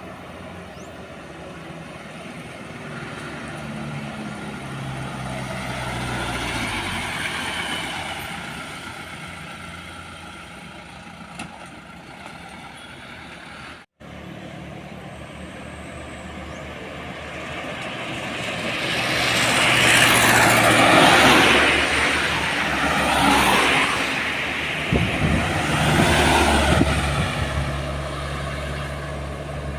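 Heavy diesel trucks passing on a highway, with a steady engine note and tyre noise. The sound of the passing vehicles swells to its loudest about two-thirds of the way through, with a second, smaller swell shortly after. A brief break about halfway through is an edit.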